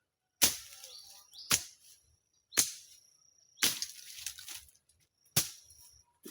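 Five sharp strikes of a metal hand tool, roughly one a second with a pause before the last, each followed by a brief rustle, as bush is cut and holes are dug. A thin high ring hangs briefly after some strikes.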